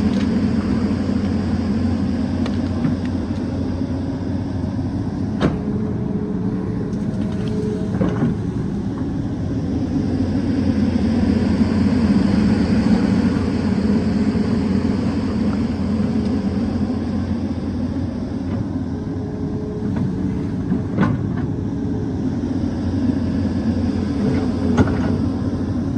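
Excavator's diesel engine running steadily while digging, with a few brief sharp knocks scattered through.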